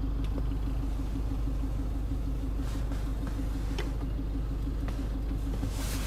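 Toyota Land Cruiser Prado engine idling steadily, heard inside the cabin as a low, even hum. A few light clicks from handling cabin fittings are scattered through it.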